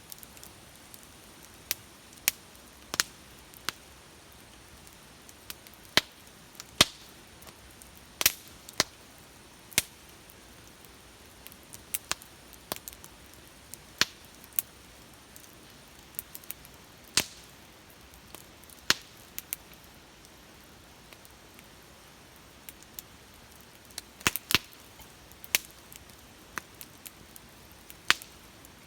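Wood bonfire burning, with sharp irregular crackles and pops over a faint steady hiss, a cluster of pops about three-quarters of the way through.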